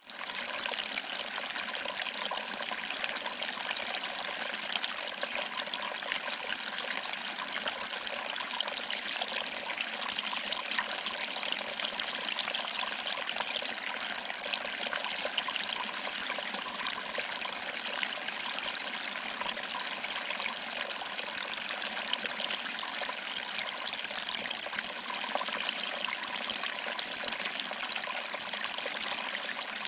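A small waterfall: water trickling over rocks and splashing into a pool, a steady, even rushing patter that fades in at the start.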